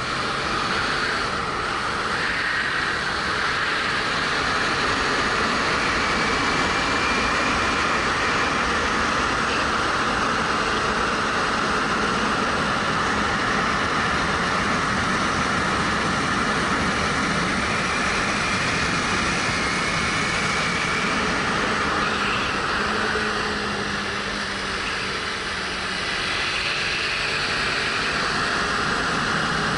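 Wind rushing over a helmet-mounted camera, with the 2013 Suzuki GW250's parallel-twin engine running underneath at a steady riding speed. It eases off briefly a little before the end.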